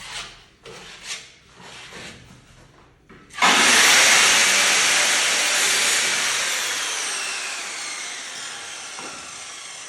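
A run of short scraping strokes, like a putty knife spreading filler on a wall. About three and a half seconds in, a sudden loud hiss starts and fades slowly.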